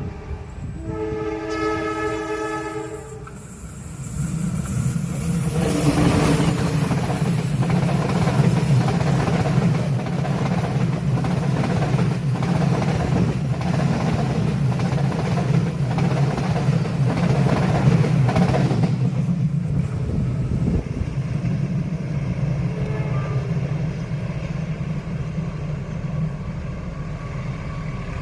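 Train horn sounding a long blast that stops about three seconds in, then a diesel locomotive and its train passing close: a steady engine drone with a rhythmic clatter of wheels over rail joints for about fifteen seconds. The clatter then stops and a quieter engine rumble lingers as the train moves away.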